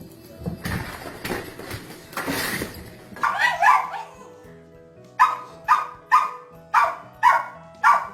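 A dog barking: a quick double bark a little after three seconds in, then a steady run of single barks, about two a second. Before the barking there is a stretch of rough noise, and background music plays under it all.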